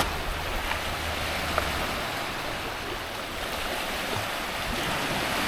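Steady rushing of moving water at the shore, with a low rumble underneath that stops about two seconds in.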